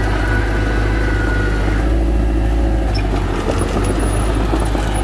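Heavy diesel engine of construction machinery running steadily, with a high steady whine over it that stops about two seconds in.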